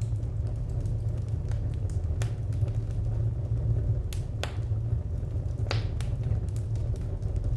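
Wood fire crackling: a steady low roar of burning with scattered sharp pops and snaps from the firewood, the loudest pops coming about two, four and six seconds in.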